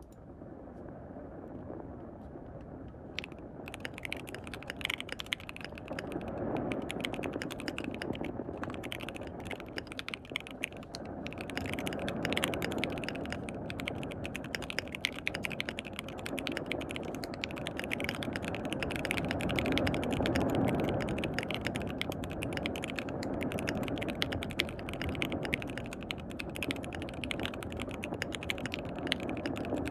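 Fast typing on a mechanical keyboard with lubed C3 Equalz Tangerine linear switches in a KBD67 Lite R3 case, starting about three or four seconds in and going on in quick runs of key clicks. Underneath is a rushing noise of rain that swells and eases.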